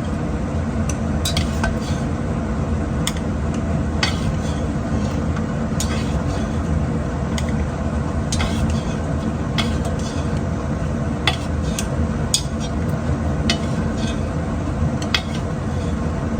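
A metal utensil clicks and scrapes against a cooking pot at irregular intervals as cooked spaghetti is lifted out of its cooking water. A steady hum runs underneath.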